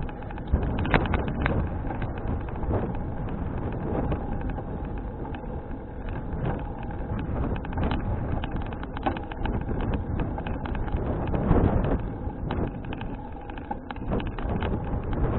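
Wind buffeting an action camera's microphone while cycling, a steady rushing noise broken by frequent small clicks and knocks.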